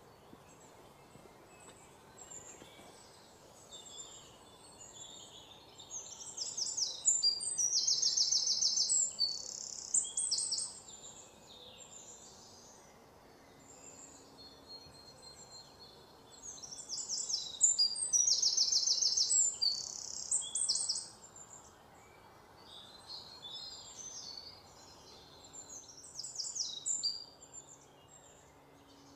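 A songbird singing: two long phrases of rapid high trills and chirps about ten seconds apart, then shorter snatches of song near the end, over a faint steady hiss.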